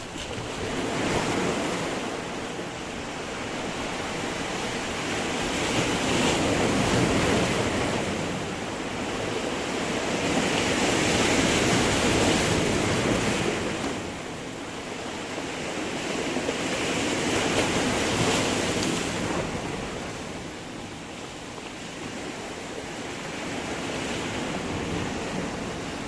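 Sea surf breaking on stones: a steady rush of water that swells and ebbs in slow surges, several seconds apart.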